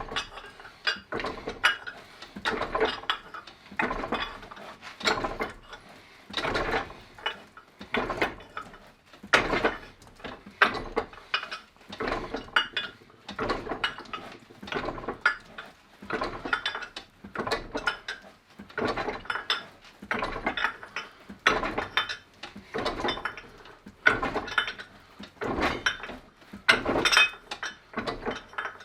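Norton No.8 fly press working a 4-inch ball bearing down onto 3 mm steel plate in a doming block: repeated metallic clanks and rattles, about one press stroke every second or so, as the plate is dished into a bowl.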